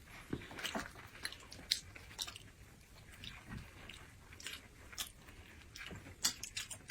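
Close-up eating sounds: a person biting and chewing food, with small crisp crunches and wet mouth clicks at irregular moments.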